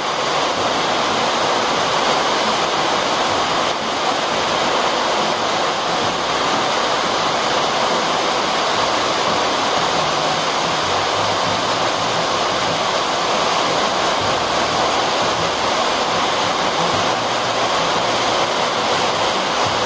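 Deafening heavy rain on a corrugated tin roof, heard from underneath: a steady, unbroken rush of noise that does not let up.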